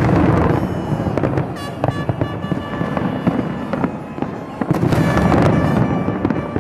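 New Year's Eve aerial fireworks bursting and crackling in rapid, continuous succession, loudest just after the start and again about five seconds in.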